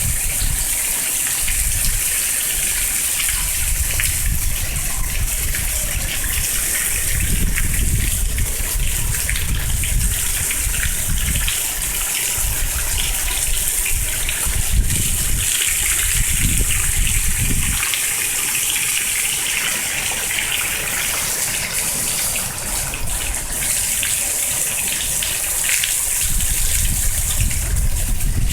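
Steady rain with running, splashing water, and gusts of wind buffeting the microphone on and off. The gusts drop away a little past halfway and pick up again near the end.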